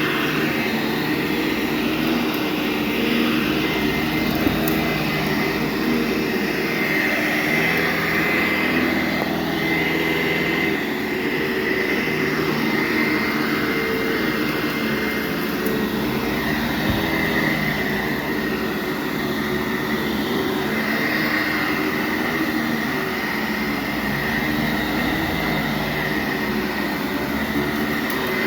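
Sanitaire SC684G commercial upright vacuum cleaner running steadily on carpet, its motor humming with a steady high whine over it.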